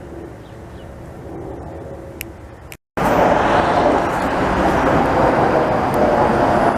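Steady traffic hum, then after a sudden cut a loud jet airliner roaring low overhead, so loud it sounds like a jet fighter. It is an old Boeing 737-200, whose engines are much louder than modern jets.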